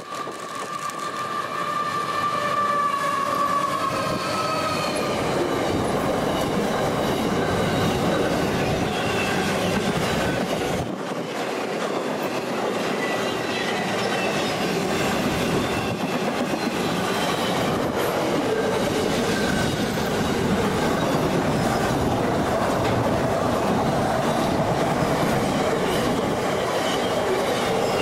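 Diesel freight locomotive sounding a multi-tone horn that slides slightly lower in pitch and fades in the first few seconds as it comes past. Then a long container freight train rolls by: steady rolling noise with wheels clicking over the rail joints and squealing faintly now and then.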